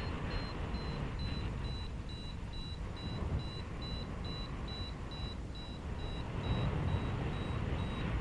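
Paragliding variometer beeping at about two to three short high beeps a second, the sign that the glider is climbing in lift, over wind rushing on the microphone.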